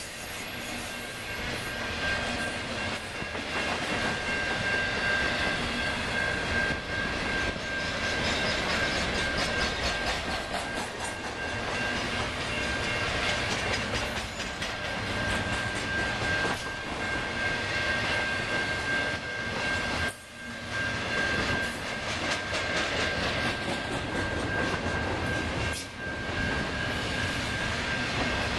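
Intermodal freight cars, trailers on flatcars and double-stacked containers, rolling steadily past: the continuous noise of steel wheels on the rails, with a steady high-pitched whine over it and two brief dips in the noise late on.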